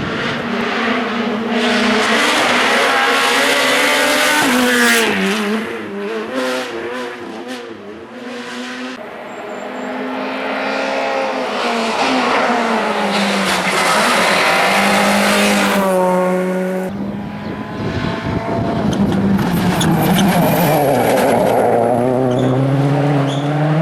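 Rally cars at full throttle on a special stage, engines revving up and dropping back again and again through gear changes and braking. The sound changes abruptly about two-thirds of the way through, as another car takes over.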